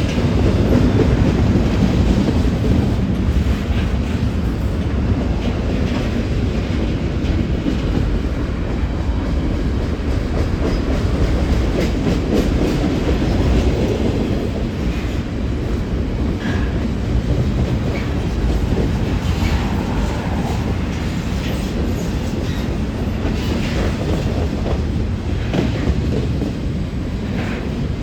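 Freight cars of a CN intermodal train rolling past with a steady rumble and irregular wheel clicks over the rail joints.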